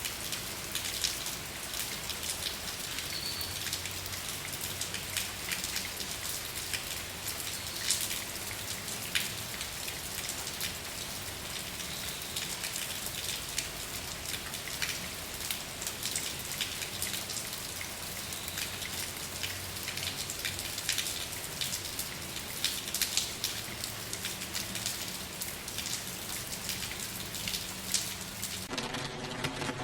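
Steady rain falling, a dense even hiss with the patter and ticks of individual drops striking a surface. About a second before the end it cuts abruptly to a different, lower, steady hum with an even pitch.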